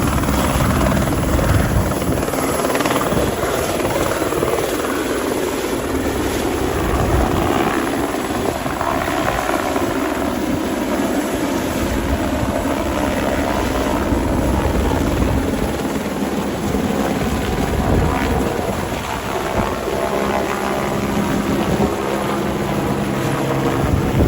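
Helicopter running close by: a steady drone of its rotor and engine.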